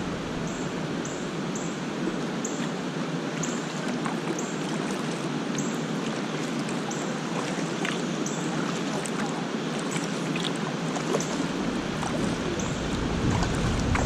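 Steady rush of flowing water from the river's cascades below the falls, an even hiss without breaks. Near the end a low rumble of wind on the microphone joins in.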